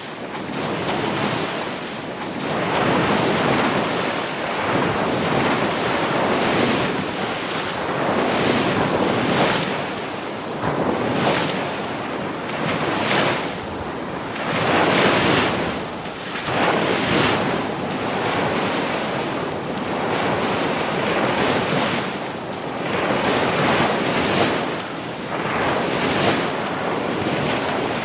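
Ocean surf: a continuous wash of breaking waves that swells and eases every couple of seconds, rising in out of silence at the start.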